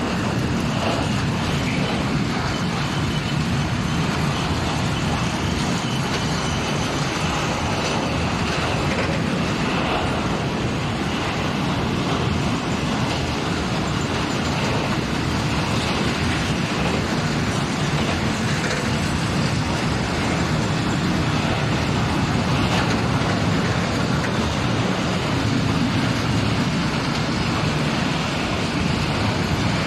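A freight train of tank wagons rolling past close by: a steady, unbroken rolling noise of wheels on the rails that neither builds nor fades.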